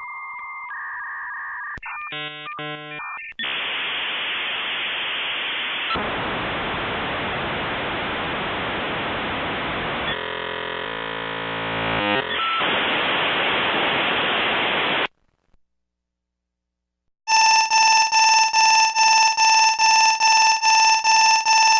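A run of telephone-style electronic sounds: steady tones and a quick burst of keypad dialing tones, then a long hiss of phone-line noise with a short warbling stretch partway through, like a dial-up connection. After a brief silence, a loud high electronic tone pulses rapidly, about two to three times a second.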